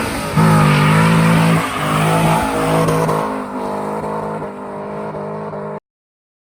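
2002 Corvette Z06's LS6 V8 running hard at high revs over a noisy hiss, the revs shifting and easing off after about a second and a half. The sound cuts off abruptly near the end.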